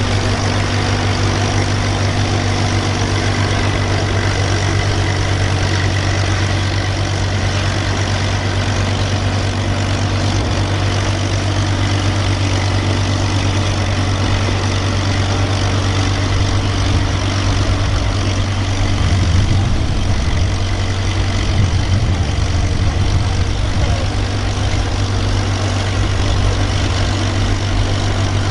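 A heavy engine idling steadily with a low, even hum, which roughens slightly for a few seconds past the middle.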